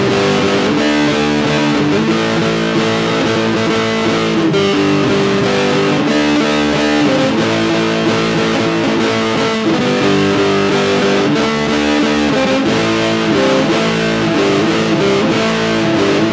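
Rock band instrumental passage led by distorted electric guitar, with strummed chords over bass and drums at a steady beat.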